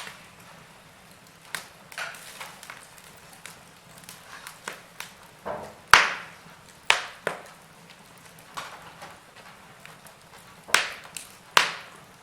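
Wood fire in a fireplace crackling, with sharp pops at irregular intervals. The loudest pop comes about halfway through, and two more strong pops come near the end.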